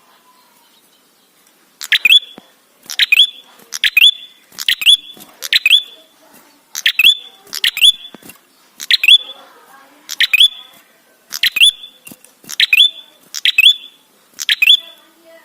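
Prenjak calling over and over: loud, sharp chirping calls of a few quick notes each, about one a second, starting about two seconds in.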